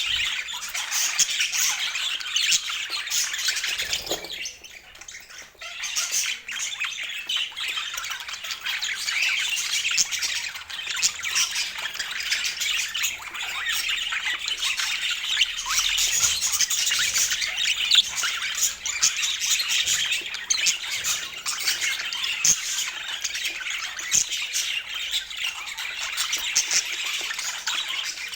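Budgerigars chattering and squawking in a dense, continuous stream of high chirps, with a brief lull about four to six seconds in.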